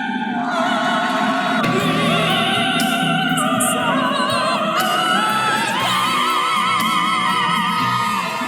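Operatic-style singing with long held notes in a wide vibrato, over musical accompaniment.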